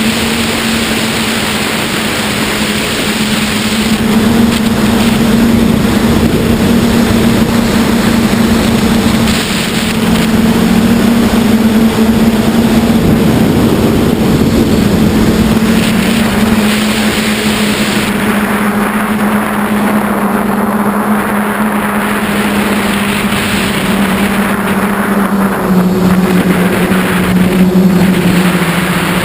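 QAV540G quadcopter's motors and propellers humming steadily, their pitch drifting slightly up and down as the throttle changes, under heavy wind rush.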